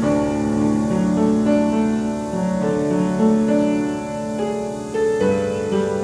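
Piano playing a slow piece, with held notes and chords that change about every half second to a second.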